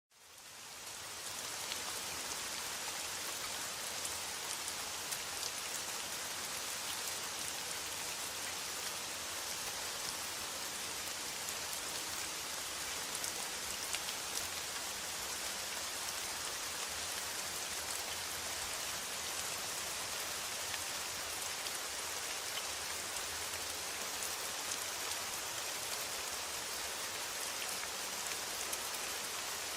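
Steady rain on a metal roof, a dense hiss dotted with the ticks of single drops. It fades in over the first second or so.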